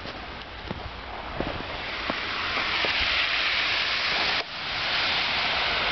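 Storm wind rushing through snow-laden trees, a steady hiss that swells about two seconds in and briefly drops out about four and a half seconds in, with a few faint ticks early on.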